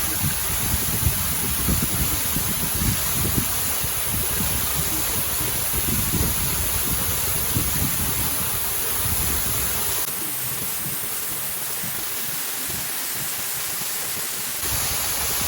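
Steady rush of falling water from a waterfall, with gusts of wind buffeting the microphone. The low rumble drops away for a few seconds about ten seconds in, then returns.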